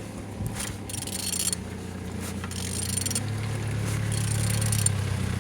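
A removed DW8B diesel engine being turned over by hand with a wrench: three scraping, ratcheting strokes spaced a second and a half or so apart, over a steady low hum that swells near the end. The engine turns freely.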